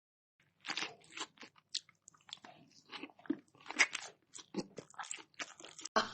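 Crunchy food being bitten and chewed: a quick, irregular run of crisp crunches starting about half a second in.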